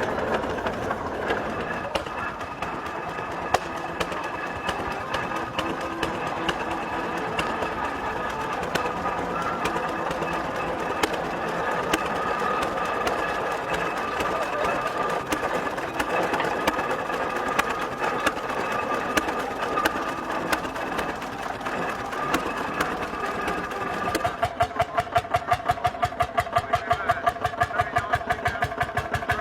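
Indistinct voices mixed with machinery noise; about 24 seconds in, an engine takes over, running with a steady, even beat.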